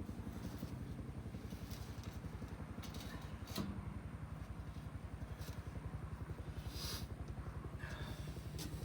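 An engine running at a steady idle, its firing pulses evenly spaced. A few light clicks and clinks sound over it, one about three and a half seconds in and one about seven seconds in.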